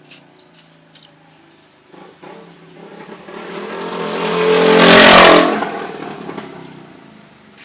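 A motor vehicle passing by: its engine grows louder to a peak about five seconds in, then fades away. A few sharp clicks come before it, in the first two seconds.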